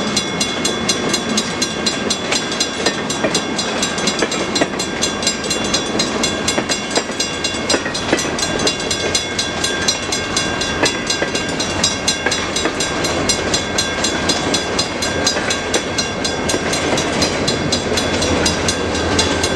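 Freight train cars rolling past over a grade crossing, the wheels clicking steadily over the rail joints. Steady ringing tones run over it, typical of the active crossing signal bells. Near the end a diesel locomotive's engine grows louder as a trailing unit comes up.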